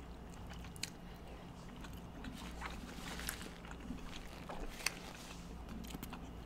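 Faint wet chewing of soft, syrup-soaked rasgulla: scattered small mouth clicks and squishes.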